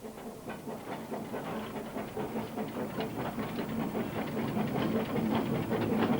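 Narrow-gauge steam train approaching, its rhythmic clatter and exhaust growing steadily louder.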